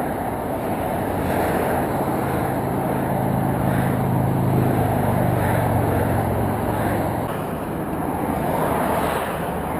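Road traffic going by: a steady noise with a vehicle's low engine sound that swells about halfway through and fades again.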